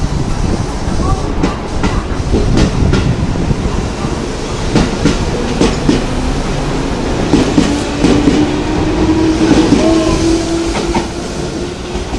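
Train running on the rails, with wheels clicking and knocking over rail joints. Over the second half a steady tone slowly rises in pitch.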